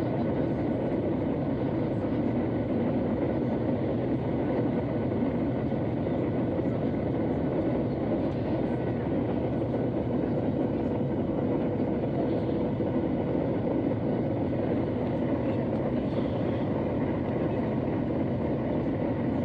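Steady cabin noise of an airliner's jet engines and rushing air, heard from inside the passenger cabin of a Ryanair Boeing 737, with a faint steady hum running through it.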